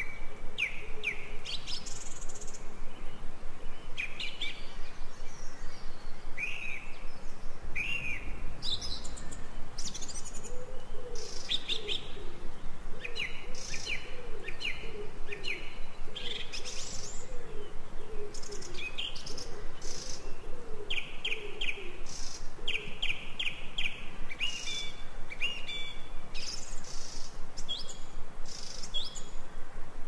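Several birds chirping and singing in short bursts and trills throughout. A lower, wavering call repeats many times through the middle, over a faint steady background hiss.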